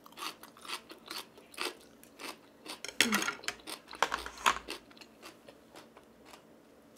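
Close-miked chewing of a mouthful of spicy instant noodles and seasoned bracken: a quick run of wet smacks and crunchy clicks, loudest about three and four seconds in, then quieter toward the end.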